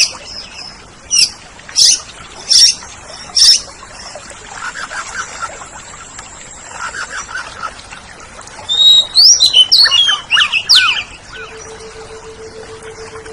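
Oriental magpie-robin (kacer) singing: a few loud, sharp notes over the first few seconds, then a quieter fast trill, then a rush of loud whistled, gliding phrases about nine seconds in. A faint steady hum starts near the end.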